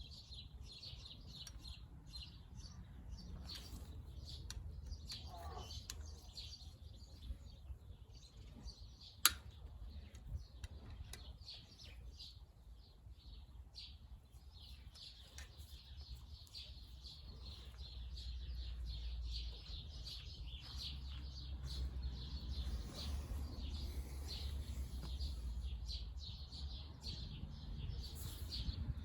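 Small birds chirping and twittering continuously, over a low steady rumble, with one sharp click about nine seconds in.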